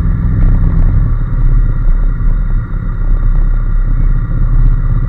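Honda NC750S motorcycle's 745 cc parallel-twin engine running, its steady low note changing about a second in.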